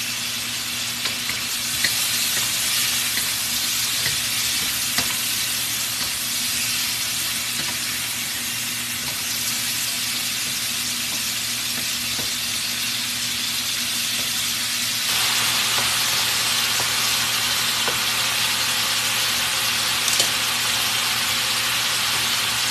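Thin-sliced pork loin sizzling hard in oil in a smoking-hot wok, with a few short scrapes of a wooden spatula. About two-thirds of the way through, a steady rushing noise joins: the stove's vent fan switched on against the smoke.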